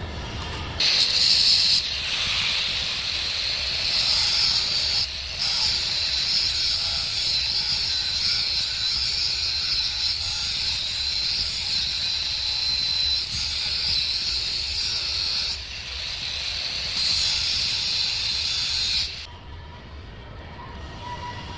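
Electric arc welding: a steady, loud crackling hiss from the arc that breaks off briefly twice and stops near the end.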